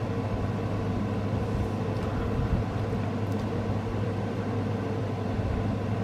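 Steady low droning hum of background machine noise, with a faint thin high tone over it and a few faint ticks.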